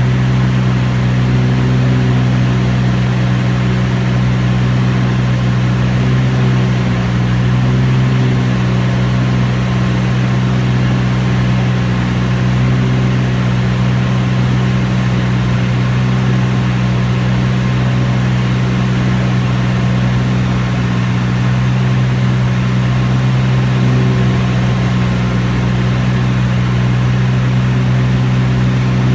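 Light aircraft's piston engine and propeller droning steadily at constant power, loud and unchanging, as heard from inside an aircraft in flight.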